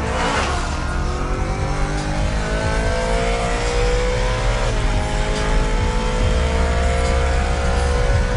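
BMW M3 E92's V8 with an HMS aftermarket exhaust accelerating hard, its note climbing steadily, dipping briefly at an upshift a little under five seconds in, then climbing again.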